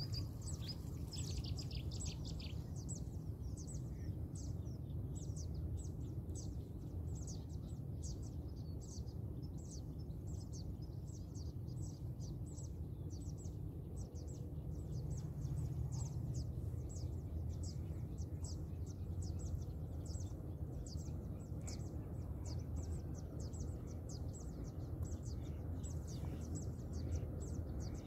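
A small bird chirping over and over, short high chirps at about two to three a second, with a busier run of calls in the first few seconds. A steady low rumble lies underneath.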